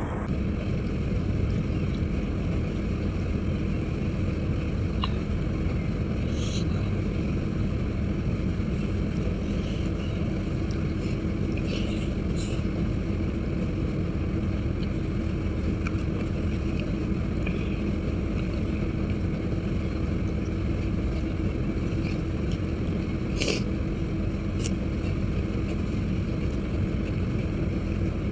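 A steady low rumbling hum with a faint constant tone, from a running motor or fan, with a few brief soft clicks.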